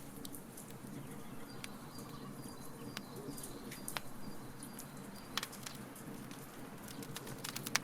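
Wood fire burning in a fire pit: scattered sharp crackles and pops, a cluster of them near the end, over a steady low hum. A faint, thin high tone sounds for a few seconds in the middle.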